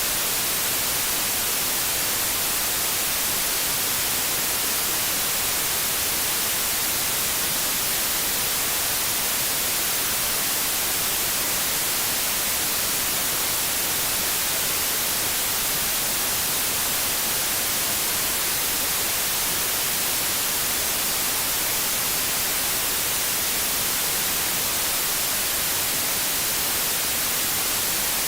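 Steady TV static hiss, the even white noise of an untuned television, brighter toward the high end, unchanging throughout.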